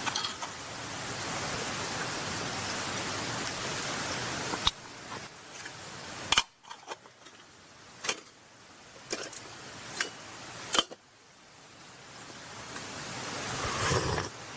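Beef offal sizzling on a grill over charcoal, a steady hiss that breaks off about a third of the way in. A quieter stretch follows, with several sharp clicks, and the sizzle builds again toward the end.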